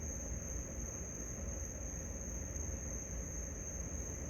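Crickets trilling steadily in one unbroken high-pitched chorus, over a low steady rumble.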